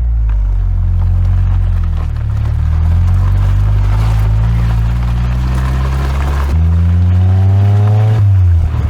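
Ford Fiesta's exhaust note recorded close to the tailpipe, the engine running steadily; over the last two seconds the revs rise, then drop near the end.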